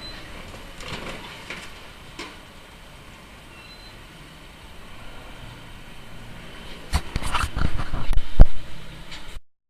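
Steady vehicle running noise, then about seven seconds in a sudden series of loud bangs and crunching impacts, typical of a vehicle crash. The sound cuts off abruptly just before the end.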